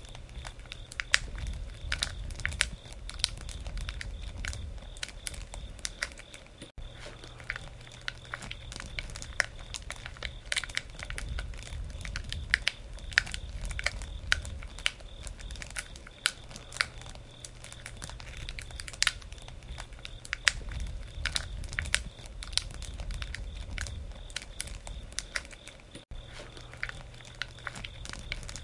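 Wood campfire crackling steadily, with frequent sharp pops and snaps from the burning wood over a low rumble. The sound drops out for an instant twice.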